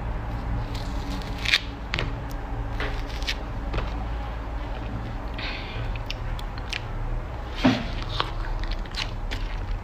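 Someone biting and chewing crunchy food close to the microphone, with sharp crunches about a second and a half in, at two seconds, and loudest near eight seconds, over a steady low hum.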